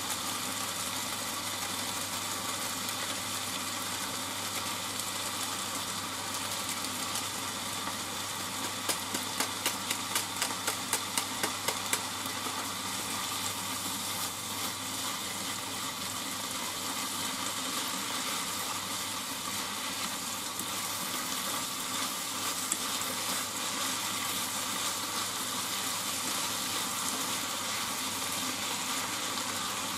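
Udon noodles and vegetables sizzling steadily in a frying pan as they are stir-fried with chopsticks. From about nine to twelve seconds in, a run of light sharp taps comes about three times a second.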